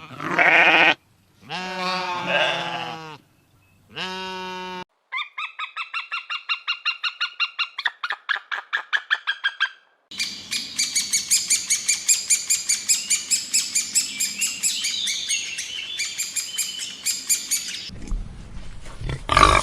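A succession of separate animal calls: a few short pitched calls in the first seconds, then a bird calling in a fast series of short chirps, about four a second, for about five seconds, then several seconds of dense, high bird chirping. A different, lower and rougher animal sound starts near the end.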